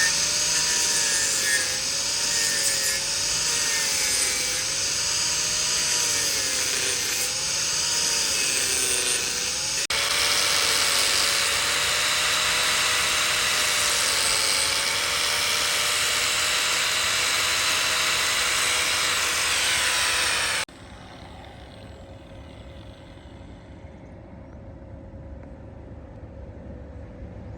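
Wood lathe running with a tool cutting into the spinning wood: a loud, steady hiss over a wavering motor whine. About twenty seconds in it cuts off abruptly to a quiet, steady hum.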